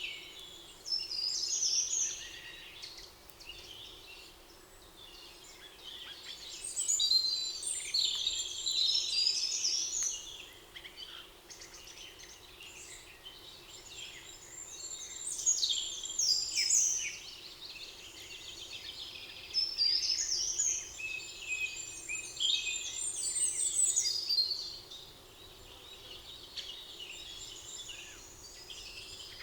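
Several songbirds singing in a forest, overlapping trills and chirps that come in bursts every few seconds, over a faint steady background.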